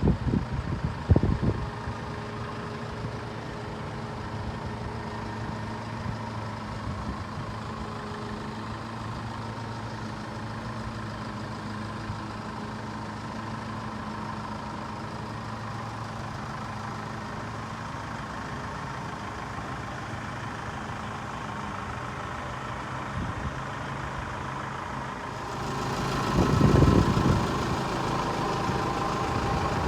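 The 3.0-litre four-cylinder diesel of a 2012 Mitsubishi Fuso FG dump truck, idling steadily. A couple of short thumps come at the start. About three-quarters of the way through, the sound grows louder and brighter, with a brief loud rush.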